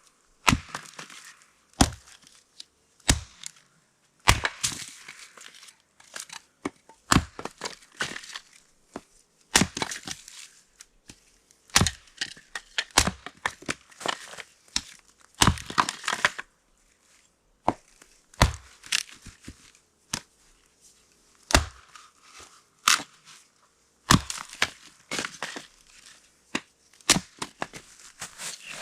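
Firewood being chopped and split: sharp blows of a blade into wood every second or two, with wood cracking and splintering between them.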